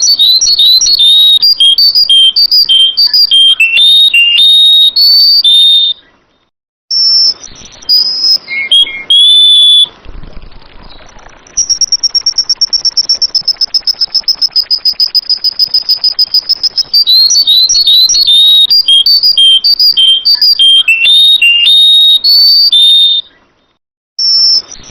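Sooty-headed bulbul (kutilang) song: quick phrases of clear whistled notes stepping up and down, alternating with long fast, even trills of high notes. The singing stops briefly twice, once about six seconds in and once near the end.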